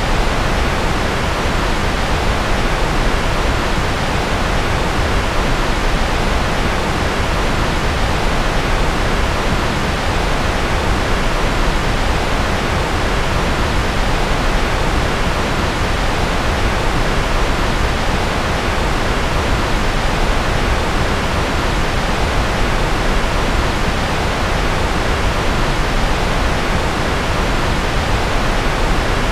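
Steady generated white-noise track: an even, unchanging hiss with more weight in the low and middle range than in the highs.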